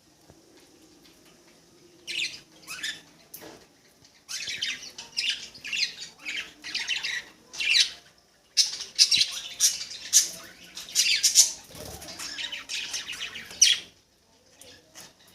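Pet budgerigars chattering and squawking, the calls coming in quick clusters, with a brief pause about four seconds in.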